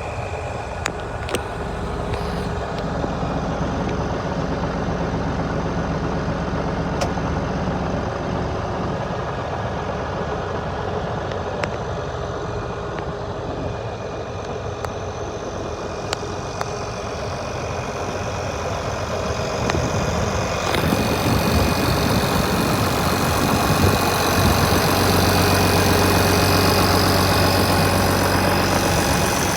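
International 1566 tractor's turbocharged six-cylinder diesel idling steadily. About two-thirds of the way in it gets louder, with more hiss and a stronger low hum.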